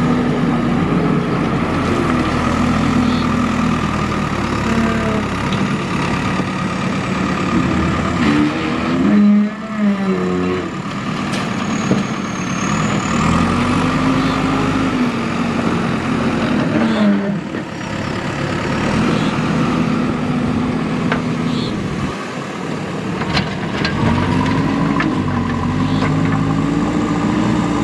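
Diesel engine of a JCB 3DX backhoe loader working, its pitch rising and falling again and again as the hydraulics take load while digging and loading sand.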